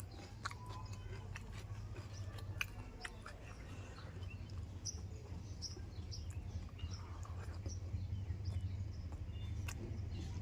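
Close-up eating sounds: a person chewing food, with scattered wet mouth clicks, over a steady low hum.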